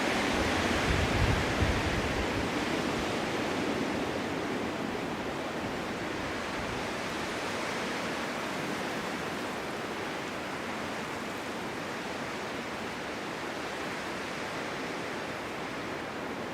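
Snowstorm wind blowing steadily. A stronger gust comes in the first few seconds with some low buffeting, then the wind eases to an even rush.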